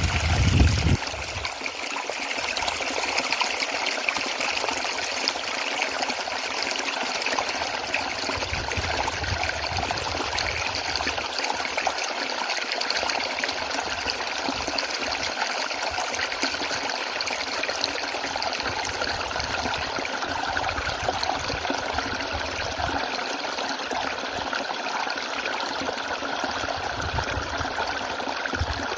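Small waterfall fed by a running spring, its water splashing and trickling steadily. A brief low thump comes right at the start.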